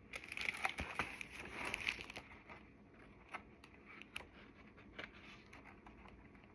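Faint rustling and light clicks of picture-book pages being handled and turned, busiest in the first two seconds.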